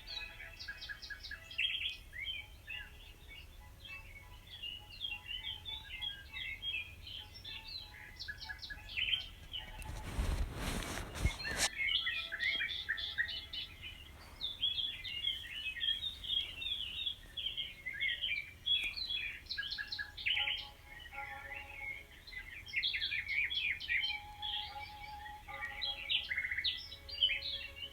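A chorus of many small birds chirping and singing together, busier in the second half. About ten seconds in there is a brief rush of noise lasting a second or so.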